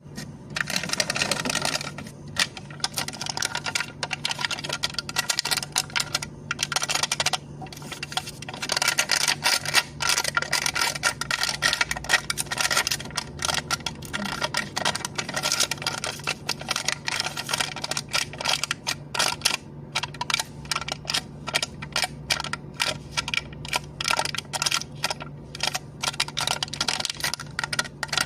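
Cup lid being tapped and clicked in quick, uneven runs of sharp clicks, several a second, with brief pauses, over a faint steady low hum.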